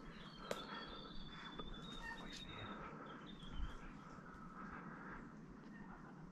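Birds calling in native bush: thin whistled notes and short chirps over a faint background. A sharp click sounds about half a second in.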